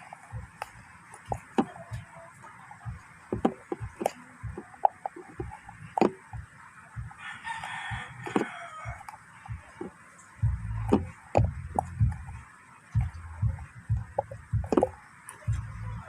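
Scattered clicks, knocks and low thumps of hands working a bowl of slime ingredients. A rooster crows once about seven seconds in.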